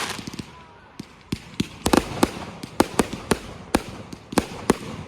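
Fireworks going off: a fading hiss at the start, then an irregular string of sharp bangs, about a dozen, a few a second.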